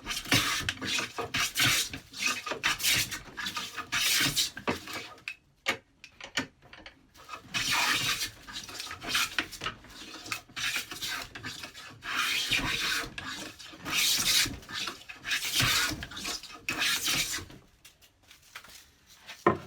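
Record No. 5 bench plane shaving a board, its freshly sharpened blade set for a very thin cut: a series of rasping strokes. Short strokes come first, then a brief pause, then longer strokes.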